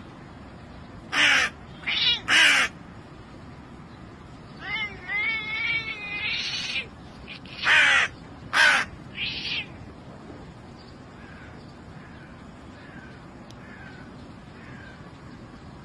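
Harsh, caw-like bird calls: three loud calls in quick succession about a second in, a warbling stretch around five to six seconds, then three more loud calls near eight to nine seconds, with faint short chirps afterwards.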